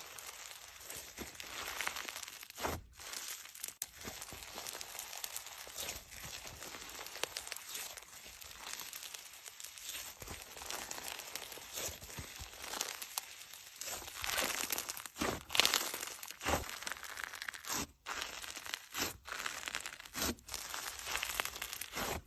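Continuous crackling, crinkling and tearing sounds of a material being squeezed or pulled apart, with a few louder crunches about two-thirds of the way through.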